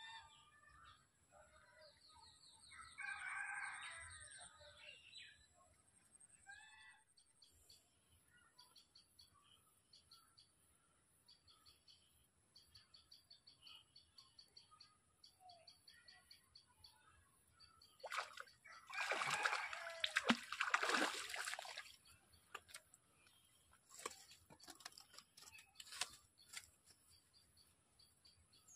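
Birds calling: a run of faint, rapidly repeated high chirps, and one loud call lasting a few seconds about two-thirds of the way in.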